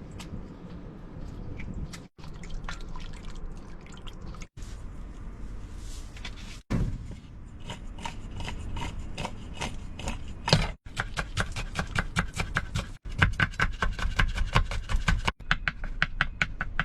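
Food preparation in short clips: wet rubbing and scraping, then in the second half rapid knife chopping on a cutting board at about five strokes a second.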